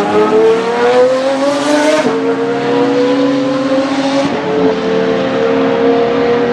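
Pagani Zonda Revolución's 6.0-litre Mercedes-AMG V12 accelerating hard, its note climbing in pitch through the gears. Two quick upshifts, about two seconds in and again about four seconds in, each drop the revs before they climb again.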